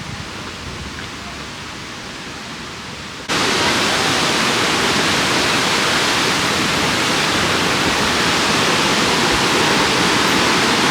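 Waterfall rushing steadily, an even noise of falling water that steps suddenly louder about three seconds in.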